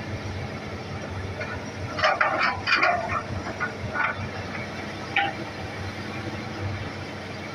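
Hitachi excavator running with a steady low engine hum, with a quick run of knocks and clanks about two seconds in and single clanks about four and five seconds in.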